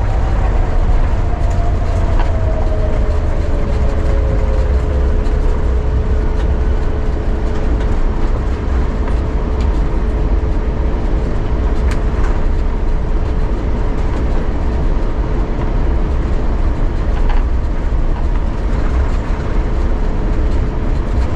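Airbus A350-900 heard from inside the cabin while rolling on the ground after landing: a loud steady rumble, with the engines' tone falling over the first few seconds and then holding as a steady hum.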